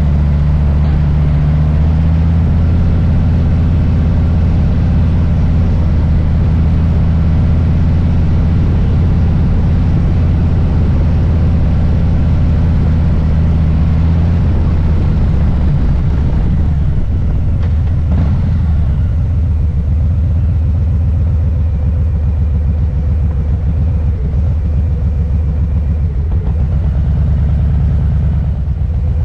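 Harley-Davidson Low Rider S's Milwaukee-Eight V-twin running on the road, heard up close. It holds a steady engine note for the first half, then eases off to a lower, uneven rumble.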